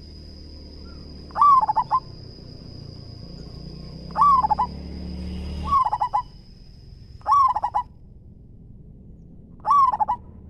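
Zebra dove (perkutut) cooing: five short phrases, each a rising-then-falling coo followed by a quick run of staccato notes. A steady high-pitched whine runs underneath and stops about three-quarters of the way through.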